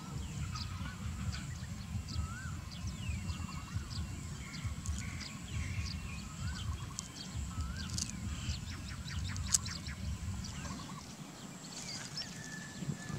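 Small birds chirping, with many short rising and falling notes, over a faint steady high-pitched hum and a low rumble that eases off about eleven seconds in.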